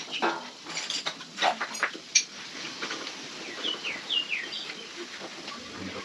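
Bird chirping: a few quick downward-sliding notes about three and a half to four and a half seconds in. Before that, several short sharp knocks and clicks in the first two seconds or so.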